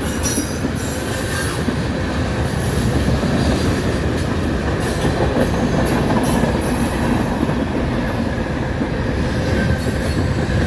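Freight train cars rolling past close by: a steady loud rumble of steel wheels on the rails, with short, sharp, high-pitched wheel squeals and clacks every second or so.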